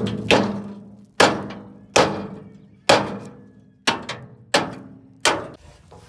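A series of seven hard knocks, one a little under every second, each ringing briefly after the strike.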